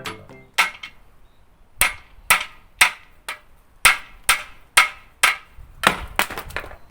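Hammer blows, about eleven sharp strikes at uneven spacing, roughly two a second, each ringing briefly.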